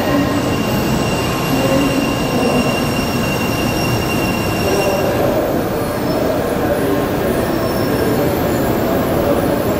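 Shinkansen train running at the station: a loud, steady rail rumble with thin, high squealing tones that fade out about five seconds in.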